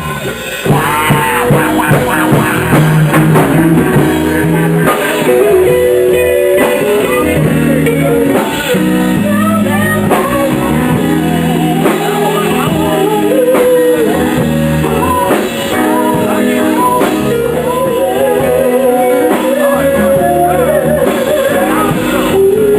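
Live soul band playing a slow R&B song: electric guitar and drum kit under a wavering vocal melody.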